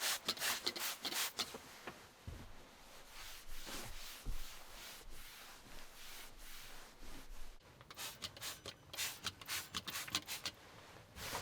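Rubbing and scrubbing in short, irregular strokes, as when a surface is wiped or scrubbed clean, with a brief pause a little past two-thirds of the way through.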